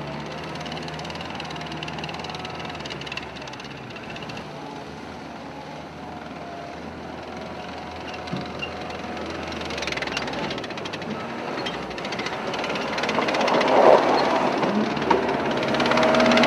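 A heavy construction machine's engine running, with scattered knocks and clanks. It grows louder over the last few seconds, with one sharp bang a little before the end.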